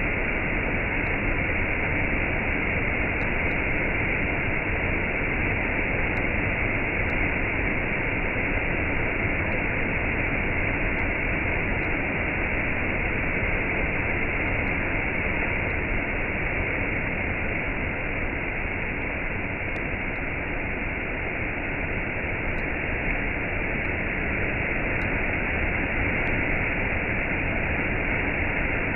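Waterfall with a cascade: water falling and rushing in a steady, unbroken wash of noise.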